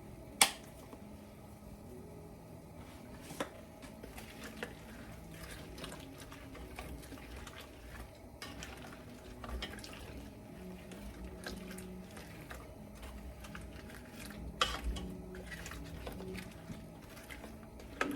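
Potatoes and onions frying in butter in a pan, a low steady sizzle, with a utensil clinking against the pan a few times, the sharpest clink about half a second in.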